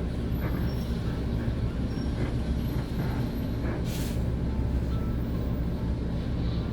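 Bus diesel engine running with a steady low rumble, and a short hiss about four seconds in.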